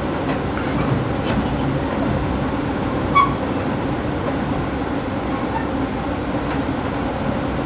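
Steady rumble of a passenger train car in motion, heard from inside the car, with one brief sharp clink about three seconds in.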